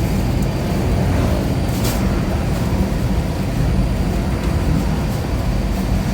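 Steady low rumble of a running motor vehicle, with a brief click about two seconds in.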